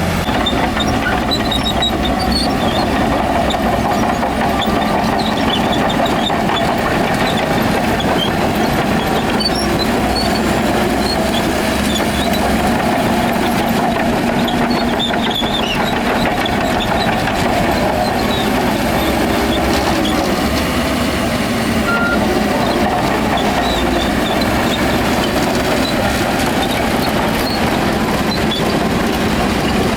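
Heavy diesel earthmoving machinery running steadily under load, a constant engine drone, with faint short high squeaks scattered through it.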